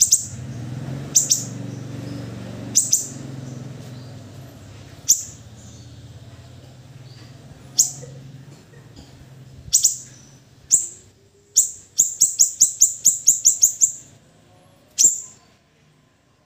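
A Siri-siri songbird's sharp, very high chirps, each a short downward flick, spaced a second or more apart, then a quick run of about eight chirps near the end. A low hum sits underneath during the first few seconds.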